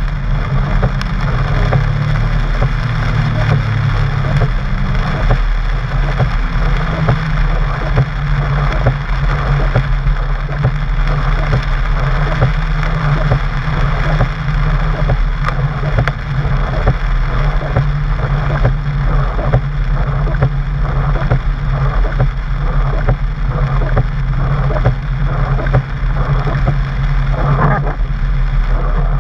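Porsche 997's flat-six engine running steadily while driving, heard from inside the cabin, with the hiss of rain and the wet road over it.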